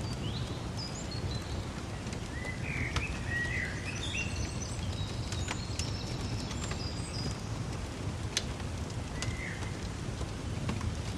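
Songbirds chirping in short, gliding calls over a steady low rumble, with a few sharp single crackles from a wood fire.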